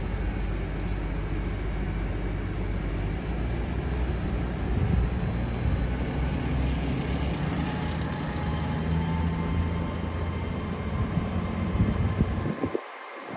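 Passenger train running close by: a loud, steady rumble with a low drone, cutting off suddenly near the end.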